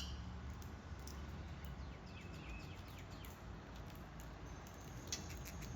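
Quiet outdoor ambience: a steady low rumble with a few faint, short high chirps about halfway through and again near the end.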